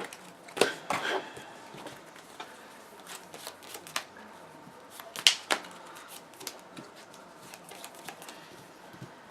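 Trading cards being handled on a table: a scatter of light taps and clicks as cards are picked up, slid and set down, with a few sharper snaps near the start and about five seconds in.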